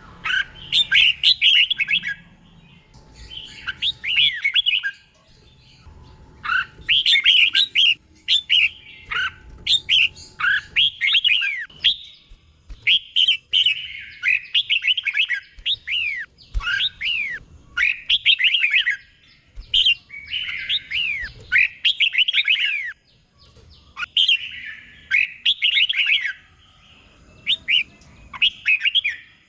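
Red-whiskered bulbul singing its bubbly whistled song, as a teacher-bird recording: quick runs of sweeping notes delivered in bursts of a second or two with short pauses between them, falling quieter near the end.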